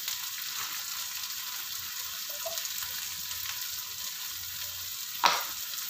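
Oil sizzling steadily in a wok as chopped shallots, garlic, red chilies, ground chili and small dried anchovies fry, with one short, louder clatter near the end.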